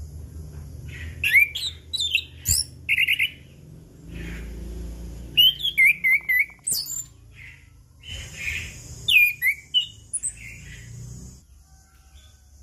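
Chestnut-capped thrush singing in short, varied phrases: sharp chirps, whistled glides and quick trills, with brief pauses between phrases. A low hum runs underneath and fades near the end.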